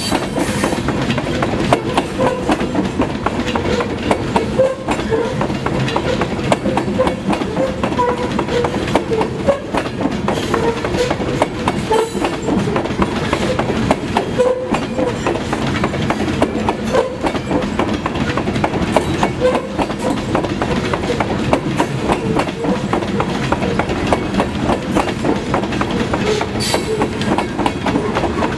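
Grain-loaded covered hopper cars of a freight train rolling past close by. The steel wheels clack over the rail joints in a steady, continuous stream.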